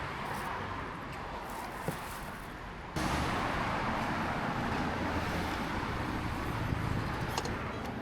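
Steady outdoor street noise with traffic; about three seconds in it jumps abruptly to a louder, brighter steady rush.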